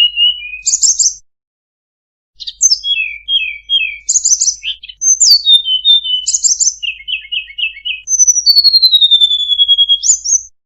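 Tledekan gunung songbird singing a varied, imitation-filled song: fast high trills, falling chirp series and a quick run of repeated notes, with a long, slowly falling whistle near the end. A pause of about a second comes just after the start.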